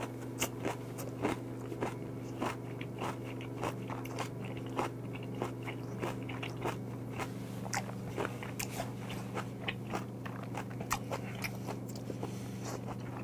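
Close-miked chewing of crunchy white kimchi wrapped around raw mullet sashimi, with a crisp crunch every half second or so. A steady low hum runs underneath.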